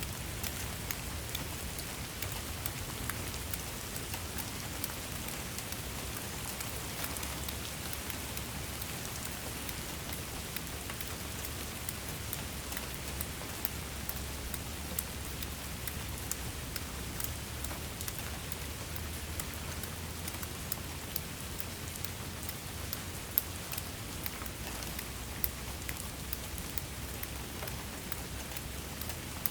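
Steady rain falling, with individual drops pattering and ticking on a surface over a low, even rumble.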